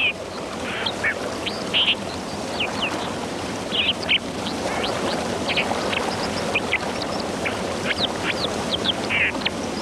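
Dippers calling: many short, sharp, high notes in quick, irregular succession over the steady rush of a fast stream or waterfall.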